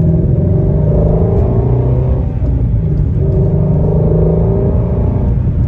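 A Shelby's engine and exhaust running steadily while driving, an extremely loud, deep drone with small shifts in pitch.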